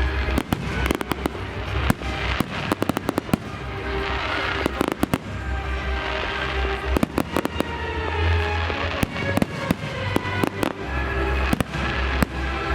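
Fireworks display: a dense, irregular run of sharp bangs and crackles from exploding shells, over a loud music soundtrack with deep bass.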